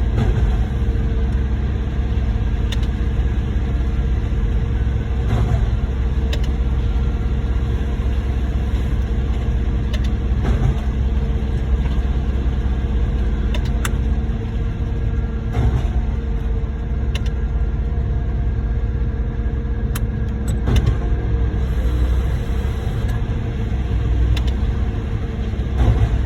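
Concrete pump truck running steadily while pumping concrete through the hose line, with a low engine rumble and a knock every few seconds.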